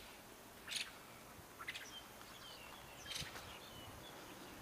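Faint bird calls: three short, harsh chirps with thin, high whistled notes in between.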